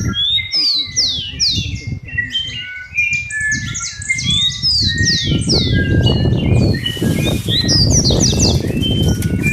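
A large number of birds calling at once: a dense chorus of falling whistles and short chirps overlapping without pause. A low rumbling noise runs underneath, dipping a couple of seconds in and stronger in the second half.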